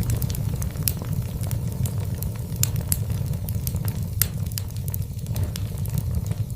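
Wood fire of burning logs in a fireplace crackling, with irregular sharp pops and snaps, a few louder ones, over a steady low rumble.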